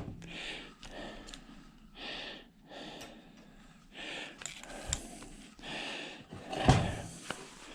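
Steady breathing close to the microphone, a soft hissy breath about every two seconds, with a few knocks of handled parts, the loudest about a second before the end.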